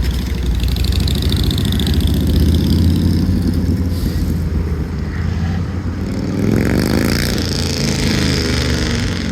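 Motor vehicle engines in city street traffic: a loud, low engine rumble throughout, with an engine revving and changing pitch about seven seconds in.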